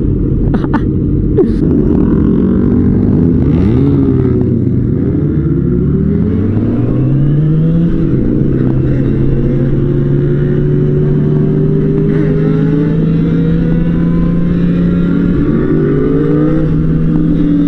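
Motorcycle engines revving in a pack of bikes pulling away from a light. About six seconds in, one engine accelerates with a rising pitch, then runs at a steady pitch while cruising, and its pitch changes again near the end.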